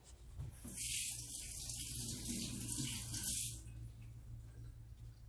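Water running in a steady hiss for about three seconds, then stopping.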